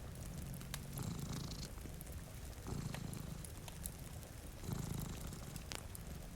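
Domestic cat purring, in low swells that come and go about every two seconds with its breathing, over small sharp pops of a crackling wood fire and a soft steady hiss of rain.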